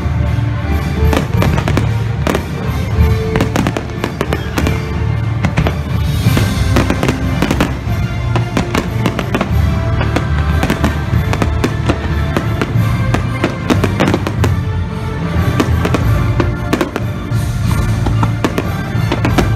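Fireworks going off in rapid succession, many sharp bangs and crackles, over loud show music.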